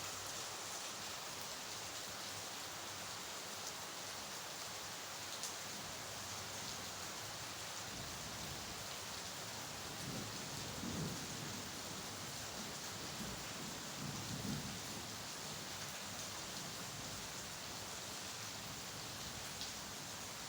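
Steady rain falling, an even hiss. A low rumble swells up twice near the middle.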